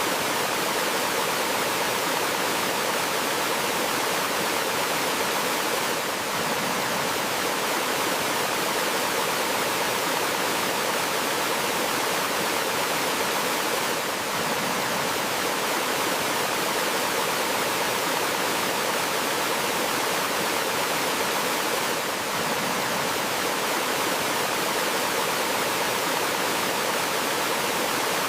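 Steady rushing of water from a small waterfall in a rocky stream, a continuous even hiss with no birdsong audible, dipping slightly in level about every eight seconds.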